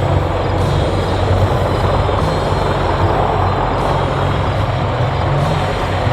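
MH-53E Sea Dragon helicopter in flight, its turboshaft engines and rotors running loud and steady with a deep low drone.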